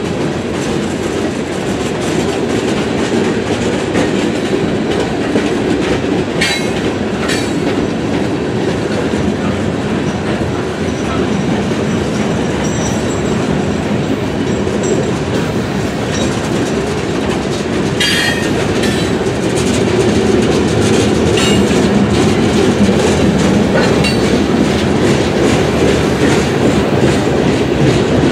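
Freight train cars rolling past, steel wheels clicking over rail joints in a steady, continuous run, with occasional brief squeals and clanks.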